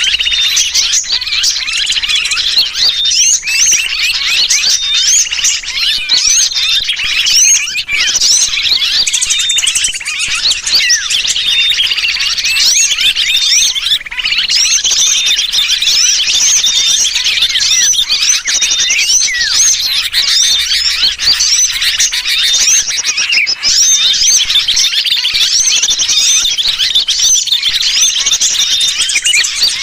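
Lure recording of many small birds chattering in alarm, layered with the distress calls of a sooty-headed bulbul, a dense, loud mass of overlapping chirps and quick whistles with no break.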